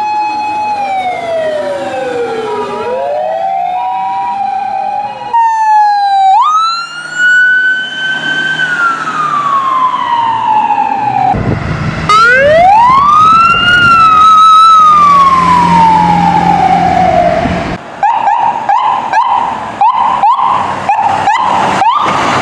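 A string of emergency-vehicle sirens cut one after another. First comes a two-tone siren whose pitches slide down and back up. Next, a wail rises sharply and falls slowly. A second wail winds up and then slowly winds down, and about 18 seconds in a fast warbling yelp with sharp clicks takes over.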